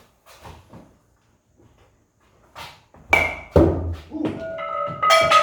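A bat hits a soft-tossed ball about three seconds in with a sharp ping, and a thud follows half a second later. Near the end a high held tone rings for about two seconds.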